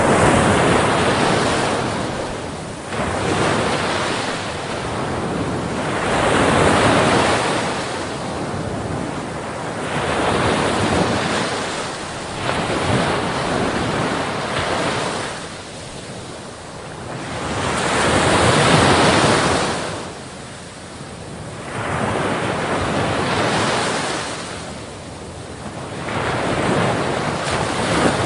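Heavy sea waves rushing and crashing against a ship, in swells that build and ease every few seconds, the biggest about two-thirds of the way through, with wind buffeting the microphone.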